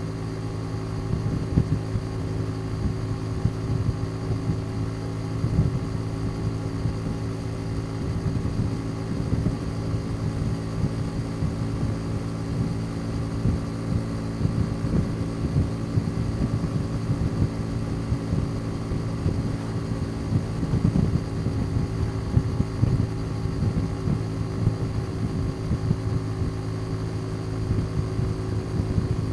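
Motorcycle engine running at a steady cruising speed, its pitch holding level throughout.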